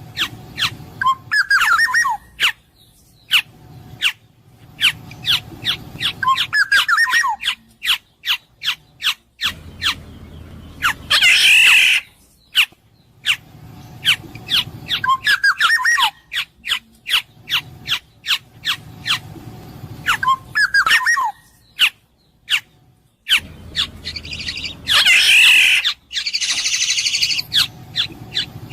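Black-naped oriole (kepodang emas) calling: rapid sharp clicking notes, short fluty whistled phrases, and a long harsh squawk. The same sequence repeats about every 14 seconds.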